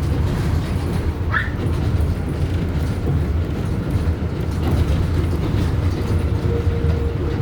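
R188 subway car of the 7 line running between stations, heard from on board: a steady low rumble of wheels on rail. A faint steady tone comes in about six seconds in.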